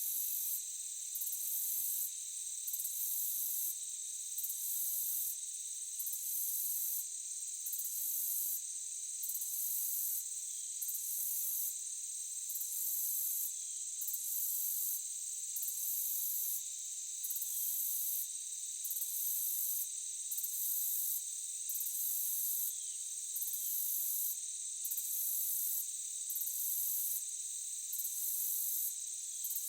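Forest insect chorus: a steady high buzz with a higher trill pulsing on and off about every second and a half.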